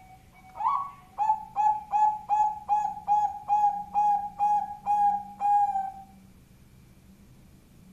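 Bangkok-type zebra dove (perkutut) singing a loud cooing phrase: a rising opening note, then about a dozen quick, even coos at about three a second, ending about six seconds in.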